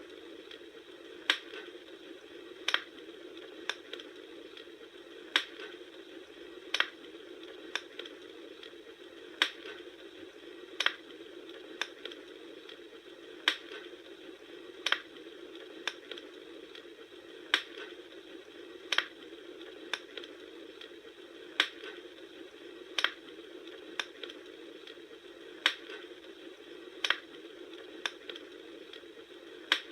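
Bonfire crackling. Sharp pops come at a strikingly even pace, about one every second and a half, over a steady hiss of burning.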